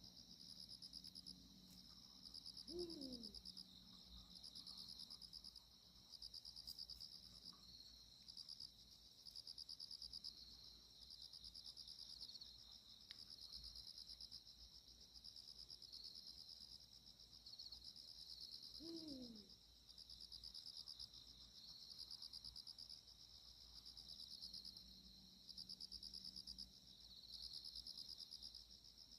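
Eurasian eagle-owl giving two deep, short falling hoots about sixteen seconds apart, over a steady pulsing chorus of crickets.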